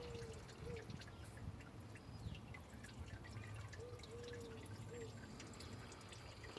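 Quiet small clicks and taps from hands working on an engine's wiring harness. A soft pitched three-note call, its middle note the longest, comes twice: near the start and again about four seconds in.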